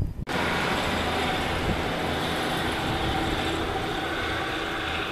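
Diesel multiple-unit passenger train passing close by, with its engine running and wheels rolling on the rails. The sound cuts in suddenly just after the start and then holds loud and steady.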